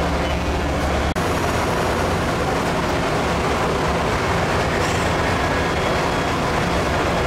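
A train running by with a loud, steady rush of noise. There is a brief dropout about a second in.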